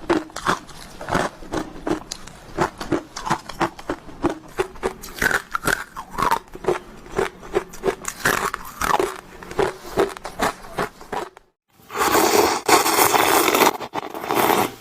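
Close-up crunching of ice being bitten and chewed, a quick run of crisp crunches a few times a second. Near the end it stops briefly, then a denser, louder crunching starts.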